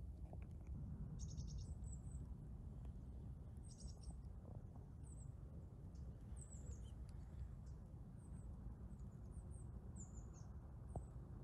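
Faint, high, thin bird calls: short chirps, some in quick pairs or trills, repeated every second or so, over a steady low rumble.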